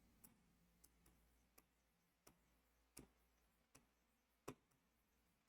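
Near silence with faint, short clicks a little under a second apart over a low steady hum.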